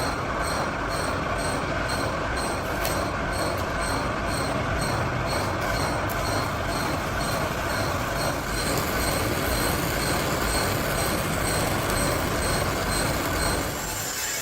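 Workshop machinery running steadily with a grinding-rolling noise and a regular light ticking about two to three times a second, easing off near the end.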